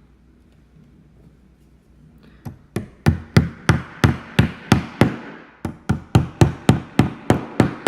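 Hammer driving nails into wood: a steady run of sharp strikes, about three a second, starting a couple of seconds in with a brief pause midway.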